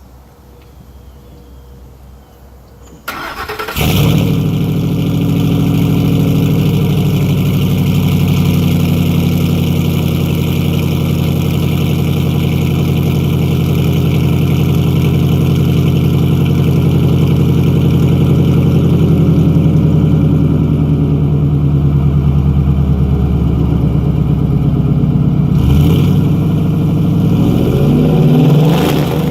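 2004 Ford F-150's 5.4-litre V8 through a custom exhaust (Pacesetter headers, MagnaFlow high-flow cats, H-pipe, SLP Loudmouth resonators) cranks about three seconds in and catches. It settles from a fast idle down to a steady, deep idle, and the pitch rises with a rev near the end.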